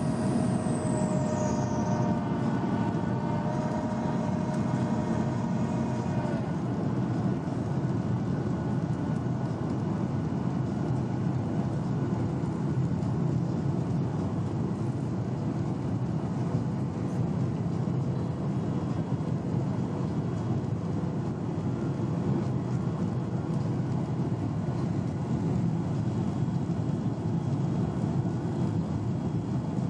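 Boeing 737-800 cabin noise: the steady rumble of the CFM56-7B engines and airflow in flight. A set of steady engine tones over the rumble stops about six seconds in.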